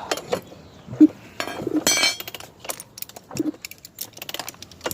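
Metal tools and parts clinking and knocking as they are handled, a scatter of short sharp clicks with one brief ringing clink about two seconds in.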